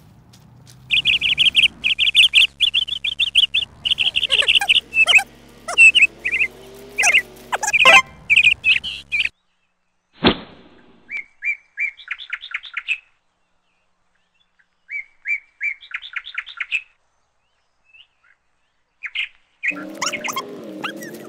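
Bird chirping in quick runs of high tweets, with a single sharp swish about ten seconds in. After it, the chirps come in short bursts separated by complete silence.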